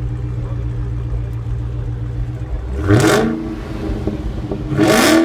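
The supercharged 6.2-litre HEMI V8s of 2015 Dodge Challenger Hellcats idling, then revved twice, about three seconds in and again near the end. Each rev rises sharply in pitch and drops straight back to idle.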